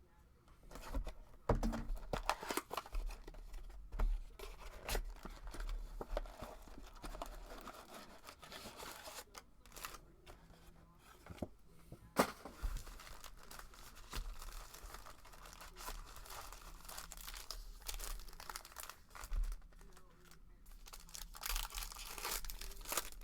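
Trading-card packaging being ripped open and crinkled: the plastic wrap and wrappers of a Panini Prizm football Mega Box and its packs tearing, with crackling and sharp rips throughout. The loudest rips come about a second and a half in and about twelve seconds in.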